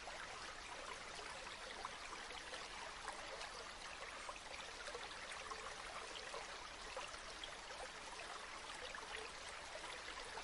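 Gently flowing river water, a steady babble and trickle.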